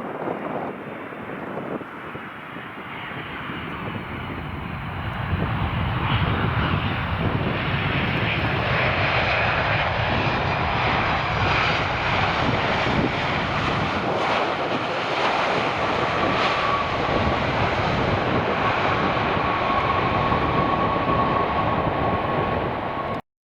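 Jet airliner engines, a dense rumble that grows louder over the first few seconds and then holds steady, with a thin whine joining about two-thirds of the way through. The sound cuts off abruptly near the end.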